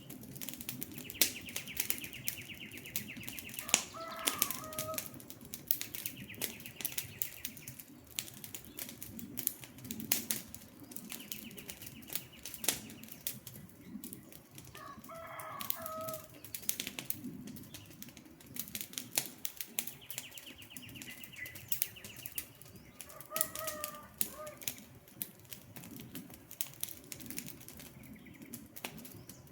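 Wood fire crackling and popping over a steady low rush of flame. Three times, about ten seconds apart, a high buzzing trill is followed by a short bird call.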